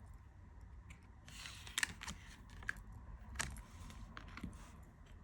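Faint handling of tarot cards: a few light taps and clicks and a brief soft slide of card stock as the cards are turned over.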